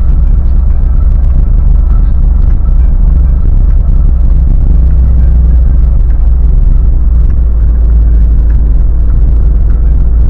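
Lada Niva Legend driving: a steady, loud, low rumble of its engine and running gear that does not change.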